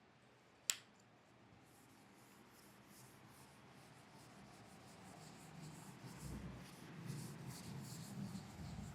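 Handwriting: a single click about a second in, then a pen scratching in quick short strokes that grow louder.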